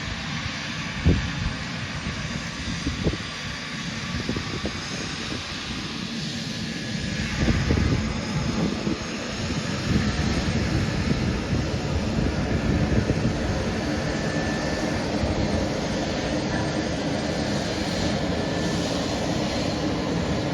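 Boeing 767's twin jet engines at takeoff thrust: a broad, steady jet noise that swells about eight seconds in and then holds.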